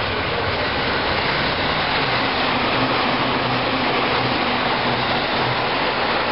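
Electric limited-express train running through the station at speed, a steady loud rush of wheels on rails.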